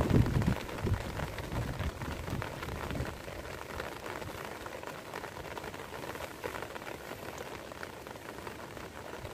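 Steady rain falling on wet grass and standing water, with a low rumble in the first three seconds.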